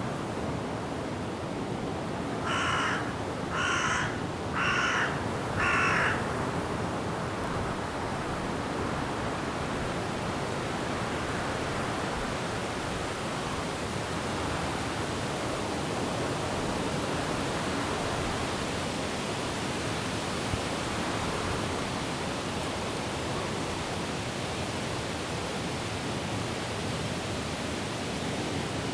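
A crow caws four times, about a second apart, a couple of seconds in. The caws are the loudest sounds, over a steady rush of wind through forest trees.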